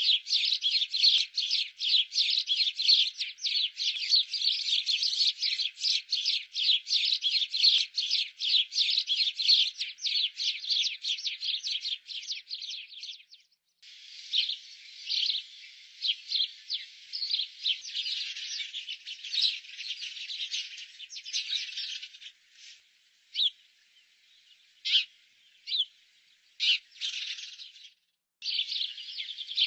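Birds chirping: a dense run of rapid, high, short chirps. It stops briefly about halfway through, then thins to scattered single chirps before picking up again near the end.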